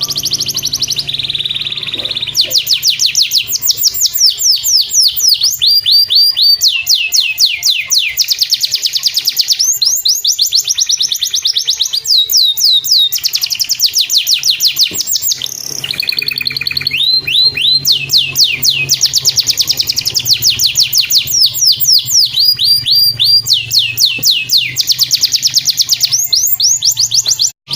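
Domestic canary singing long, fast trills, each made of rapid descending notes repeated several times a second, switching from one trill type to the next every second or two. It is a masteran recording used to train and stimulate other canaries to sing. The song cuts out briefly near the end.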